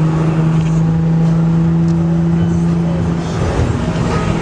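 Car driving with steady engine and road rumble; a steady low droning tone holds for about the first three seconds, then fades.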